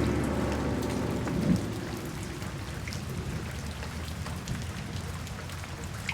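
Steady rain falling: an even hiss with scattered ticks of drops. The tail of a music passage fades out in the first second or two.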